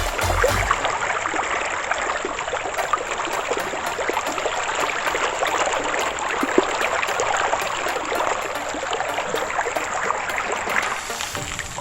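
A stream of water running steadily, a dense, even splashing hiss. Music fades out just after the start and comes back near the end.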